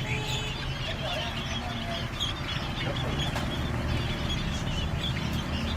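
Many birds chirping and calling at once, short overlapping calls over a steady low hum.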